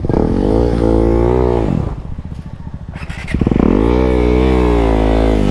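KTM 390 Adventure's single-cylinder engine revving in two surges. The pitch rises and wavers, drops away for about a second and a half in the middle, then climbs again and holds.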